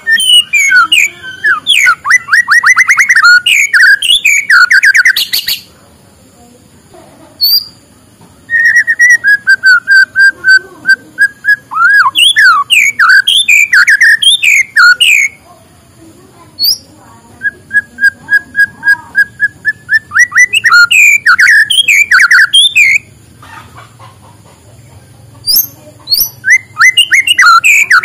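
White-rumped shama (murai batu) singing in four loud bouts separated by pauses of a couple of seconds. Two bouts open on a long steady whistle before running into fast, varied notes.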